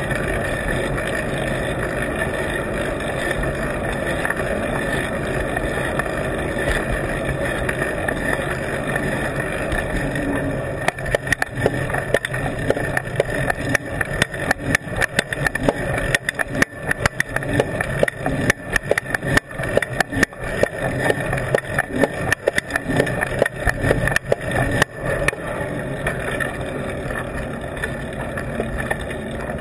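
Riding noise picked up by a camera on an adhesive mount on a moving bike: a steady rush of wind and road. From about 11 s to about 25 s it is broken by rapid, uneven rattling knocks.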